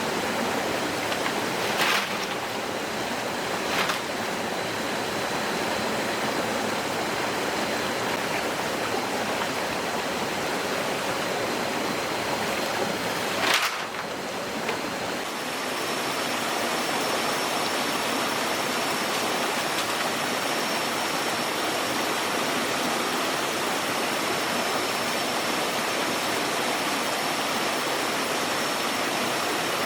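Steady rushing of flowing water, like a forest stream, with a few sharp knocks about 2, 4 and 13 seconds in, the last one the loudest. A faint steady high tone runs through it and shifts higher about halfway.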